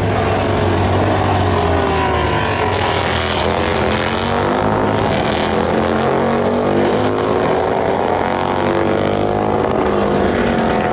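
Motorcycle engines running hard, their pitch dropping about four seconds in and then climbing steadily again, like bikes braking and then accelerating.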